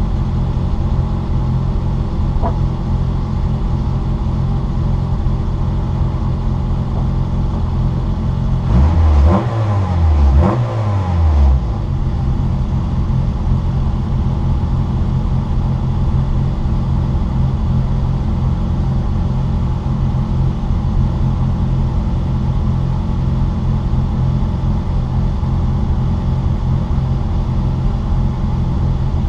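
Citroën Saxo VTR's four-cylinder engine running under load at a steady pitch, heard from inside the car. About nine to eleven seconds in, the engine note dips and climbs again twice in quick succession.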